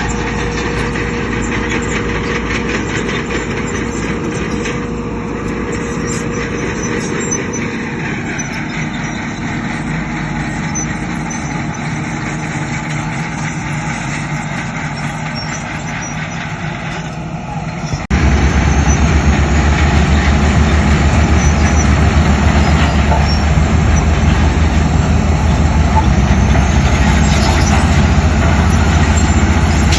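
Heavy diesel engines of earthmoving machinery running steadily. About two-thirds of the way through, the sound cuts abruptly to a louder, deeper engine rumble.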